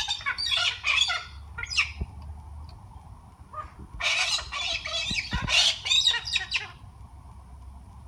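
Pet parrots squawking in harsh, screechy calls, in two bouts: one in the first two seconds and another starting about four seconds in and lasting nearly three seconds.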